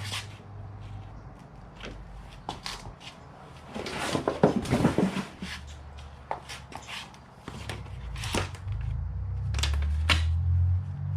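Scattered clicks, knocks and scrapes of hand tools and parts being handled during a car belt job, with a low hum building over the last few seconds.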